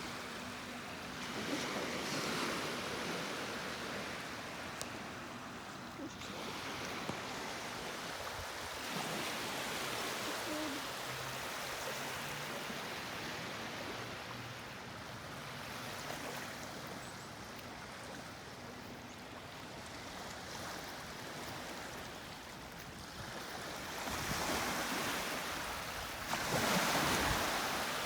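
Small lake waves washing onto the beach, a rushing wash that swells and eases every several seconds, loudest near the end.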